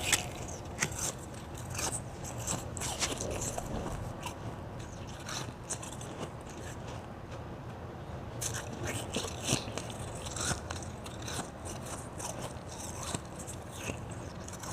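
Person chewing white ice, with irregular small crunches and crackles as the ice breaks between the teeth.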